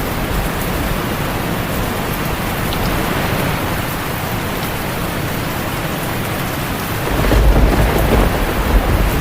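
Heavy rain falling on a tin roof as a steady, dense hiss, with a low rumble of thunder swelling about seven seconds in.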